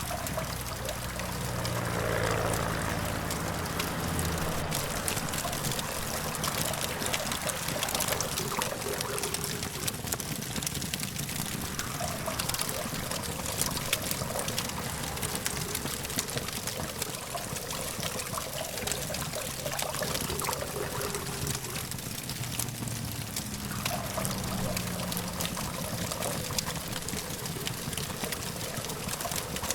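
Campfire crackling with many small, sharp pops over a steady hum of distant traffic. A passing vehicle's low engine drone swells and fades about two seconds in and again a little over twenty seconds in.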